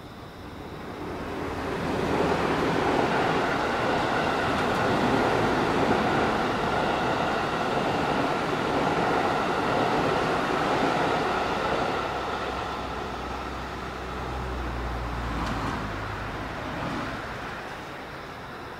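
Two coupled 223 series electric multiple units passing on the main line, a steady rush of wheels on rail and running noise. It builds over the first two seconds, holds for about ten seconds, then fades as the train runs away, with a low rumble swelling and dying away near the end.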